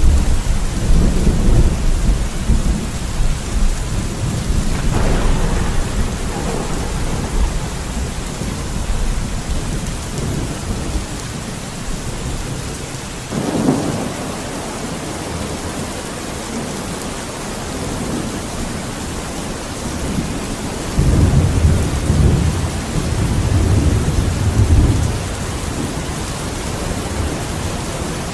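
Steady rain hissing throughout a thunderstorm, with thunder over it. A long low rumble opens, sharper cracks of thunder come about five and thirteen seconds in, and another deep rumble rolls about three-quarters of the way through.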